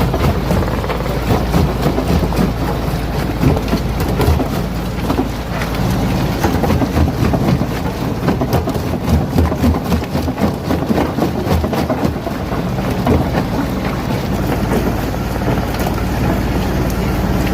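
Stone crusher running, its motor humming steadily under the irregular cracking and clattering of rocks being crushed. In the middle the crushing turns heavier and more uneven, then the steady hum returns near the end.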